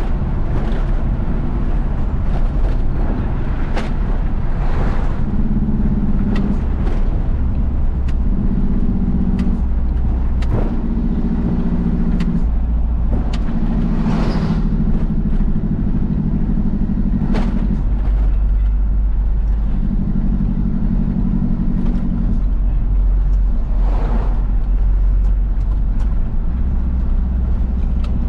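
Isuzu FRR90 truck's diesel engine running under way, heard with road noise. The engine hum swells and eases every few seconds, with a few brief sharp noises along the way.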